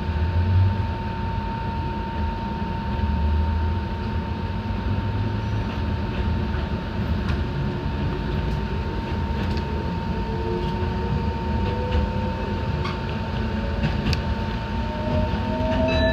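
Enoden electric train running, heard from inside at the front of the car: a steady rumble with a constant hum. From about ten seconds in, a motor whine rises in pitch as the train gathers speed.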